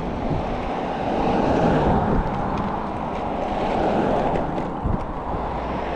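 Steady rush of wind across the microphone of a moving e-bike, with tyre rumble over a bumpy sidewalk.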